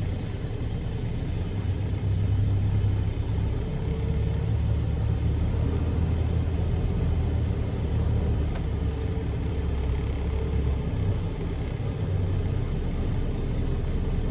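Semi truck's diesel engine running, heard from inside the cab as a steady low rumble that grows louder about two seconds in.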